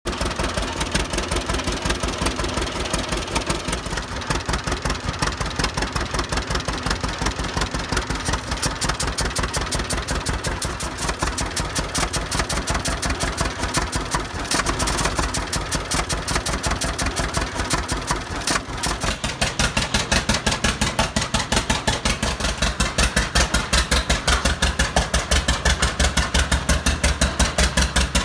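Tractor engine running at a steady idle with an even firing beat that grows louder from about two-thirds of the way through.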